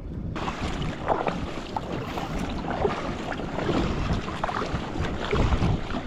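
Wind buffeting the microphone and seawater slapping and splashing around a sit-on-top paddle ski, with scattered small splashes and knocks. It comes in abruptly just after the start.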